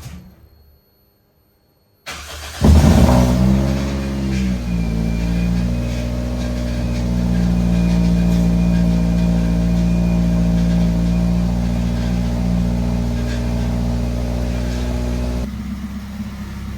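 Toyota car engine starting about two seconds in: it catches with a rev that falls back over a second or two, then runs steadily. Near the end the note drops quieter.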